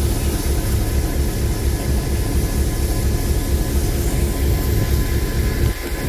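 Locomotive engine running at rest with a steady, low, pulsing throb, dipping briefly near the end.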